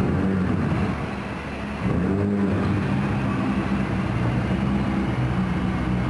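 Car engine running steadily as the car climbs, with one short rev about two seconds in, its pitch rising and falling back.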